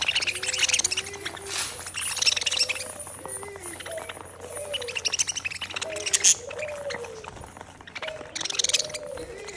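A group of small birds chirping and twittering in rapid bursts, over shorter, lower calls that rise and fall and repeat about once a second.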